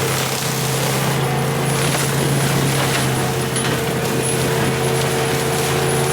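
Tracked skid steer running steadily under load, its diesel engine droning with the mulching head shredding brush.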